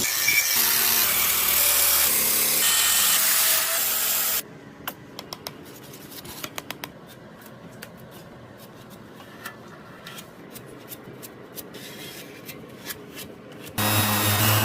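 Workshop tool work on motorcycle parts: a loud rasping, sanding-like scrape for about four seconds, then much quieter handling with scattered sharp clicks and taps.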